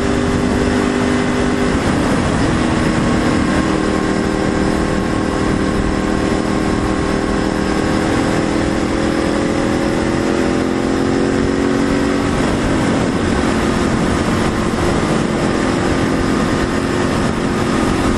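Motorcycle riding at road speed: a steady engine drone with wind noise over it, the pitch changing shortly after the start and again about two-thirds of the way through.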